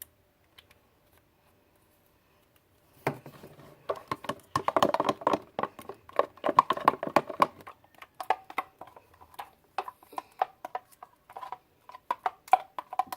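A spoon stirring glue and yellow food colouring in a bowl: quick, dense scraping and clicking against the bowl, starting about three seconds in.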